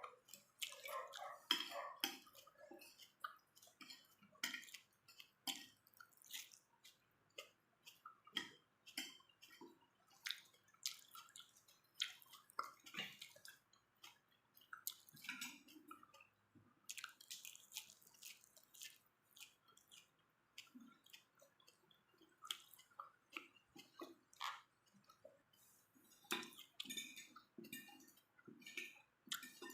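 Close-up eating sounds of pork being chewed: wet chewing, lip smacks and mouth clicks, many short sharp sounds at an irregular pace.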